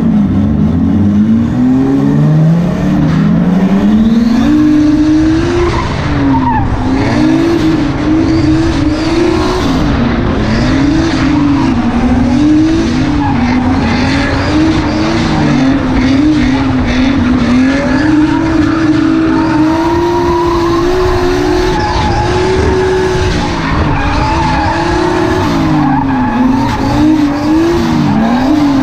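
BMW E36 engine revving up and down again and again while the car drifts, the pitch climbing and falling every second or two, with tyres skidding underneath.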